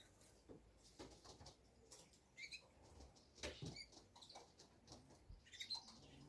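Near silence with faint scattered taps and rustles, and a few short high bird chirps about two and a half, three and a half and five and a half seconds in.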